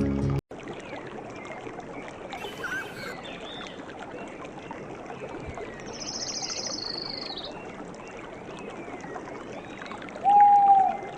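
Running water with birds calling over it: scattered short chirps, a rapid high trill in the middle, and one loud, short whistled note near the end.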